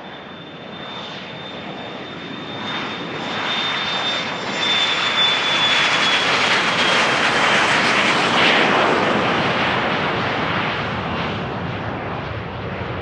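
Business jet's turbofan engines passing close on the runway: the noise builds to a peak about two-thirds of the way through and then fades. A high whine drops slightly in pitch as the jet goes by.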